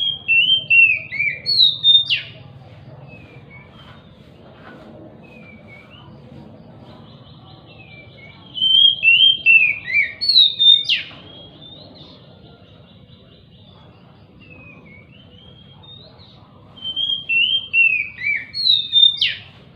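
Oriental magpie-robin (kacer) singing the same short phrase three times, about eight seconds apart. Each phrase is a run of falling notes that ends in a sharp upward note, with softer chirps in between.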